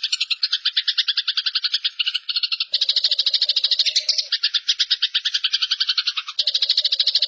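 Eurasian tree sparrows giving their fighting chatter: a fast, unbroken stream of harsh chirps, about ten a second.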